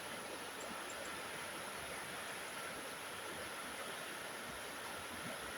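Steady rush of the Quisa mountain torrent pouring into the Brembo river, an even wash of flowing water with no change.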